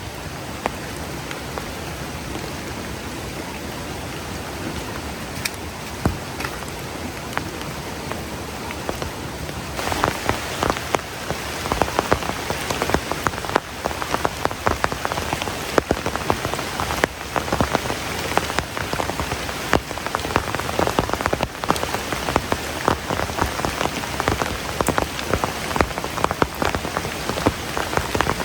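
Heavy rain falling steadily; about ten seconds in, big drops start striking a nearby surface, a dense, uneven pattering of sharp hits over the rain's hiss.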